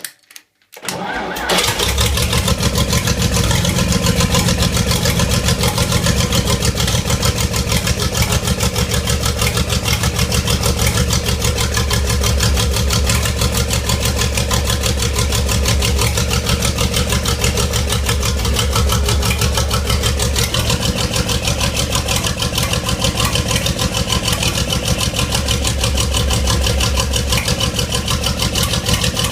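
Praga AE tank engine, its top cover off to expose the rocker arms, starting about a second in and then idling steadily with fast, even firing pulses.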